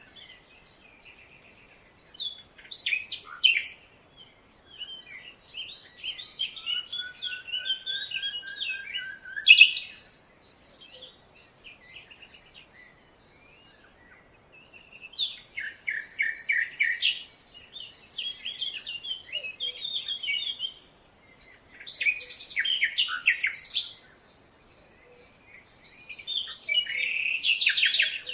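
Several songbirds chirping and singing in busy bursts of quick high chirps and trills, with a long, slightly rising whistled note about eight seconds in. The calling twice drops away to near quiet for a few seconds, around the middle and again near the end, before picking up.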